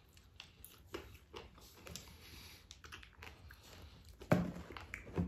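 Chewing on crunchy KFC fried chicken, small crackles and clicks, with gloved hands rustling in a cardboard meal box; a louder thump about four seconds in.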